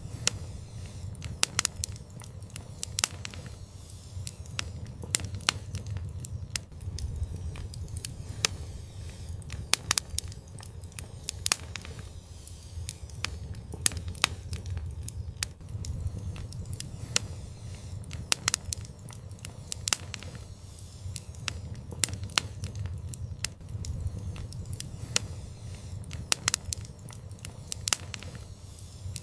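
Wood fire burning in an outdoor fireplace: sharp crackles and pops at irregular times, several a second, over a steady low rumble of the flames.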